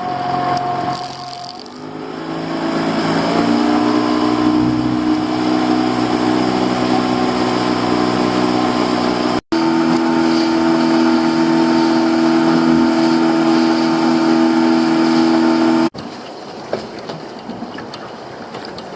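Boat's outboard motor throttling up, its pitch rising over the first few seconds, then running steadily at speed. The engine sound stops suddenly near the end, leaving a quieter rush of wind and water.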